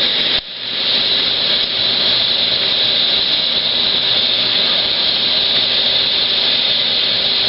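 A firework fountain spraying sparks with a loud, steady hiss. The hiss drops out briefly about half a second in, then builds back up.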